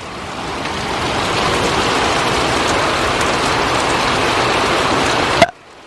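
Heavy downpour of rain coming down hard, swelling over the first second or so into a loud, steady rush. It cuts off suddenly with a click about five and a half seconds in.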